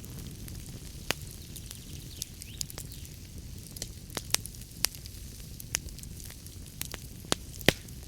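Fireplace fire crackling: irregular sharp pops and snaps over a low steady rumble, with the loudest pop near the end.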